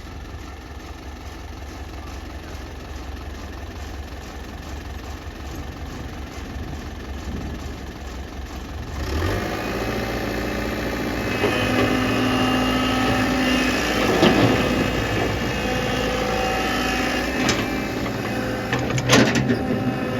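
JCB 3DX backhoe loader's diesel engine running steadily, then rising to higher revs and louder about halfway through as it works under load. A few sharp knocks come over it in the second half.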